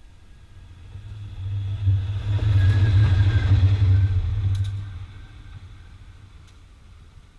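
Diesel locomotive passing close by on the track: the low hum of its engine swells over a couple of seconds, holds loud as it goes by, then fades as it recedes. A few sharp clicks come near the end of the pass.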